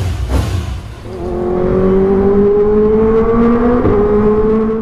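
Kawasaki four-cylinder sport bike engine revving: a few quick throttle blips, then about a second in it is revved up and held high, the pitch slowly climbing.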